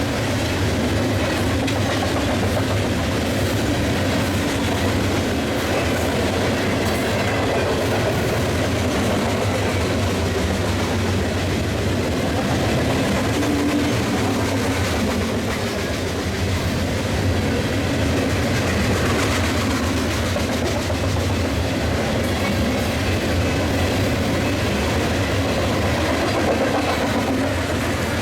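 Loaded Union Pacific coal train rolling past at speed, its hopper cars' wheels clattering steadily over the rails in a continuous loud rumble.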